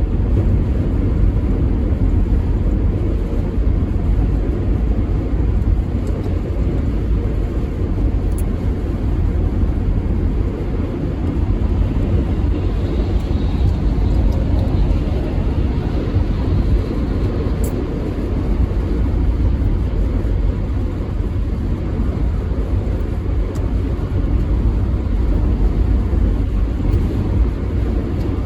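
Steady low vehicle rumble that holds unbroken throughout.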